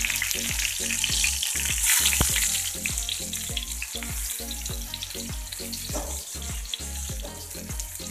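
Masala-coated eggplant slices sizzling as they fry in hot ghee on an iron tawa, the sizzle loudest about two seconds in.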